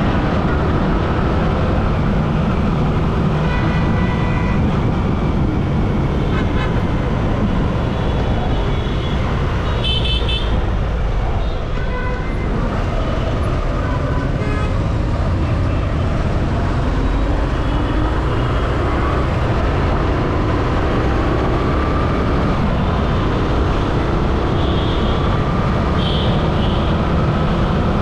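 Steady rumble of vehicles running, with horns tooting several times, about 4, 10, 14 and 25 seconds in.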